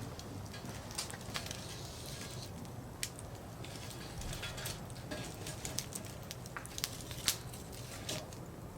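Firewood burning and crackling: a handful of sharp, irregular pops and snaps over a steady soft hiss, the loudest pop about seven seconds in.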